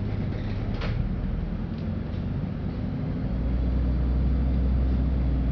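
Inside a LiAZ-5292 city bus: a single knock about a second in. From about three seconds in, the engine's low drone comes up louder and steady as the bus moves off from a stop.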